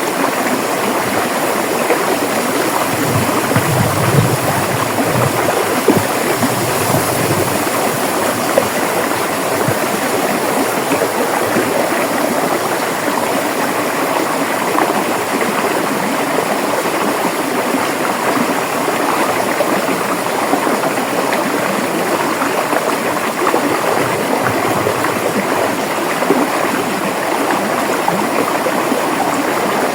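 River water rushing and splashing steadily over rocks, an even, unbroken flow with a little more low rumble about four seconds in.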